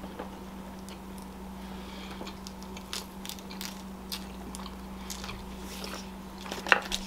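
Close-up eating sounds: a person chewing and biting into fast food, with scattered small crunches and wet mouth clicks.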